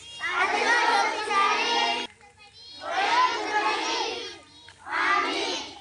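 A large group of schoolchildren singing together in unison, in three phrases with short breaks between them; the first phrase cuts off sharply.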